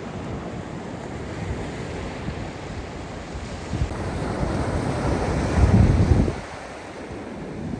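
Wind buffeting the microphone, rising into a strong low gust about five seconds in that cuts off suddenly a little after six seconds.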